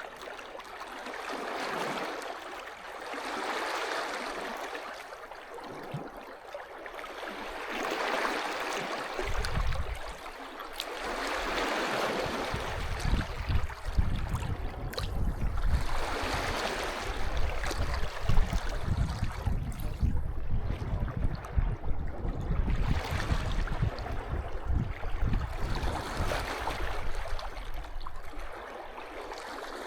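Small sea waves washing onto a beach, swelling and falling back every few seconds. From about a third of the way in, an uneven low rumble runs underneath until near the end.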